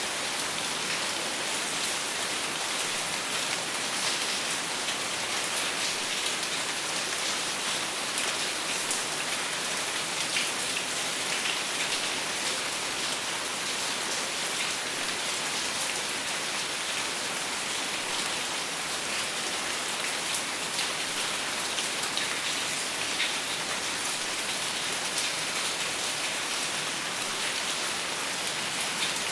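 Steady rain falling without thunder, an even hiss of drops with many fine patters on a surface.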